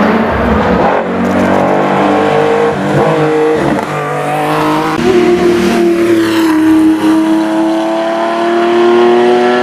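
Porsche racing car engine under hard acceleration, its note stepping through several quick gear changes, then holding one long pull that slowly climbs in pitch.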